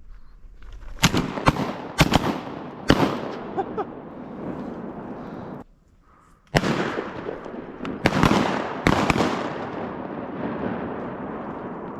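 Shotgun shots: a quick volley of several shots in the first few seconds, each followed by a trailing echo. After a short break comes a second string of shots.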